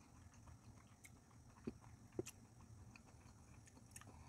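Near silence with faint chewing of a mouthful of sushi: soft, scattered mouth clicks, two slightly louder ones around the middle.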